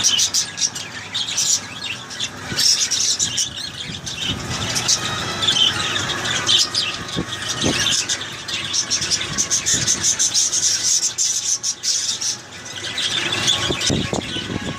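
A group of small pet parrots chattering continuously with rapid, high-pitched squeaks and squawks, easing off briefly near the end.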